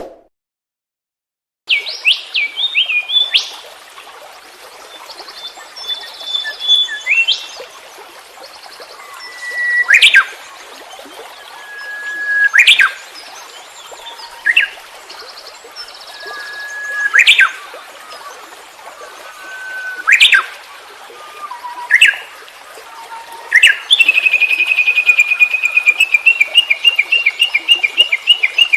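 Songbirds singing: after a short silence, varied chirps, then sharp rising whistled notes every two to three seconds, and near the end a fast, even trill.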